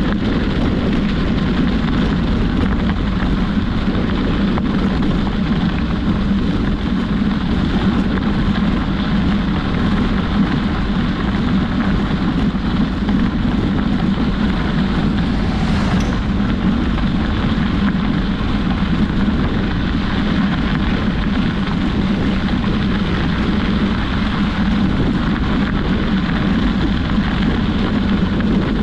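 Steady wind rush on the microphone and road rumble from a bicycle riding along a road.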